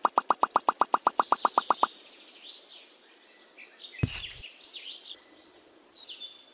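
Birds chirping and trilling, with short high chirps that fall in pitch. A fast, even run of about nine clicks a second fills the first two seconds. A brief burst of noise comes about four seconds in.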